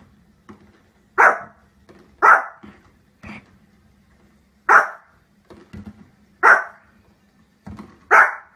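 Pomeranian barking: five loud, sharp single barks spaced one to two seconds apart, with a few softer barks in between.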